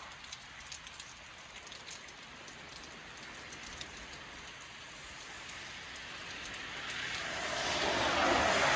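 Steady rain falling, with scattered ticks of drops. Over the last couple of seconds a passing vehicle's tyres hiss on the wet road, growing louder.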